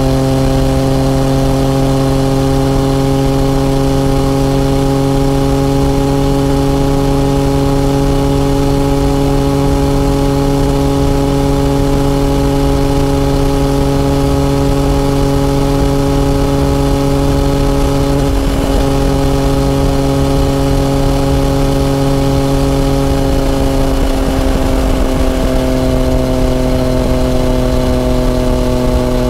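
Yamaha FZ-09's inline three-cylinder engine running at a steady cruising speed, its note holding an even pitch and dropping slightly about three quarters of the way through as the throttle eases.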